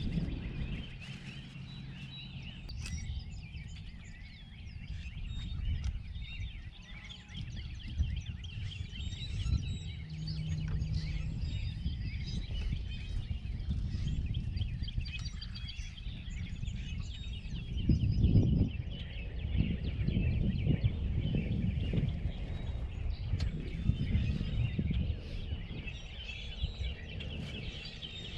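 Many birds chirping and singing together, over a gusty low rumble that swells briefly about eighteen seconds in.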